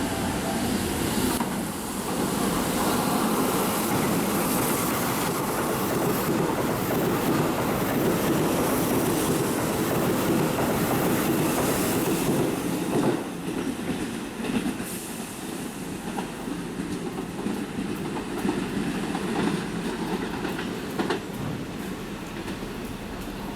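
Keihan electric train running on the track, wheels clacking over rail joints. The loud running noise drops off about thirteen seconds in to a quieter rumble with scattered clicks.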